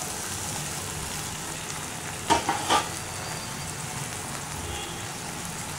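Onion-tomato masala sizzling steadily in a hot nonstick frying pan as a mushroom and soya gravy is poured in. There are two sharp knocks about two and a half seconds in.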